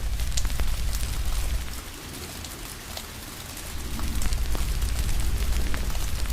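Steady rain mixed with a wood fire crackling, with frequent sharp pops and snaps. A deep low rumble underneath drops away about two seconds in and comes back just before the four-second mark.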